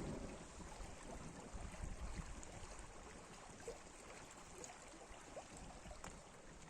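Faint outdoor background: a steady soft hiss with a few small scattered clicks, and a low rumble that fades out in the first second.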